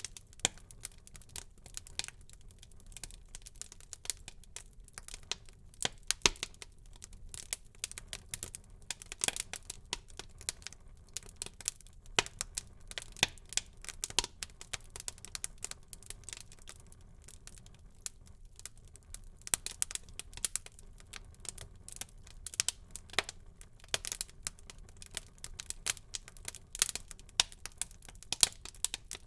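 Wood fire burning in a fireplace, crackling with many sharp irregular pops and snaps over a low steady hiss.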